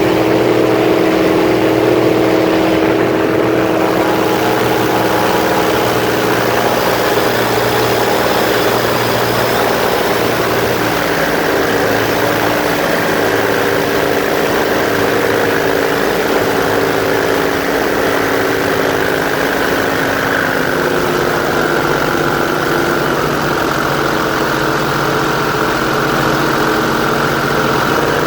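Airboat's engine and propeller running steadily, its tone shifting slightly about eleven seconds in.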